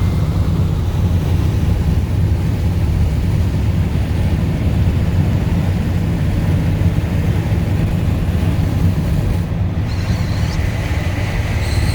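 Steady in-cab drone of a 1965 Ford F100 pickup driving along with the windows up: low engine and road rumble mixed with wind noise. A faint high whistle comes in near the end.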